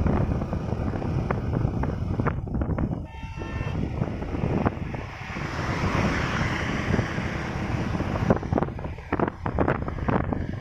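Hero HF Deluxe motorcycle on the move, heavy wind buffeting the microphone over a low rumble. A short vehicle horn sounds about three seconds in, and a louder rush of noise swells in the middle.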